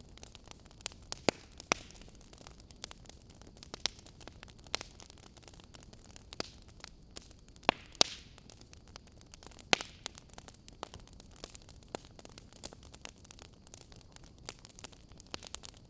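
Wood fire burning in an open fireplace, crackling: a low steady hiss with irregular sharp pops and snaps, the loudest a little over a second in, around eight seconds in, and near ten seconds.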